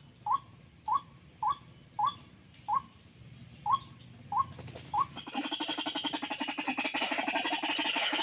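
White-breasted waterhen calls: short single notes repeated about twice a second, then about five seconds in a louder, rapid pulsing croaking call takes over.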